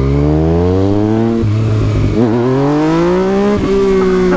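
Yamaha MT-09 motorcycle's three-cylinder engine accelerating through the gears. Its pitch climbs, drops at an upshift about a second and a half in, climbs again, and drops at a second shift near the end before holding steady.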